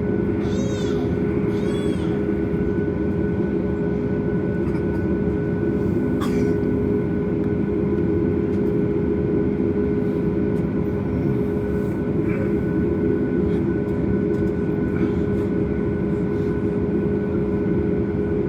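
Steady cabin noise inside a Boeing 737 MAX on the ground, with its CFM LEAP-1B engines idling: an even hum with several steady tones and a hiss of cabin air. A few brief high chirps come about half a second to two seconds in.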